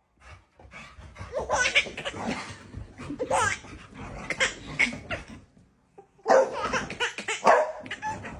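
A person laughing hard in repeated bursts, pausing briefly about six seconds in before laughing again.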